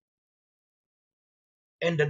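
Dead silence, with no room tone at all, then a man's voice resumes near the end.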